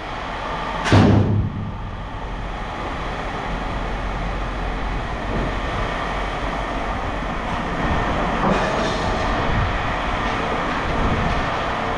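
A single heavy clank about a second in, as a heavy piece of scrap metal is set or dropped down, followed by a steady rumbling mechanical noise.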